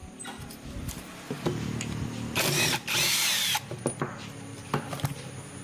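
A power tool run in two short bursts in the middle, over a low steady hum, with a few sharp clicks of tools being handled.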